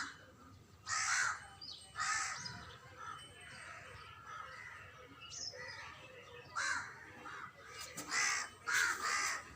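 Crows cawing: about half a dozen short, harsh caws, two in the first few seconds and a quicker run of them near the end.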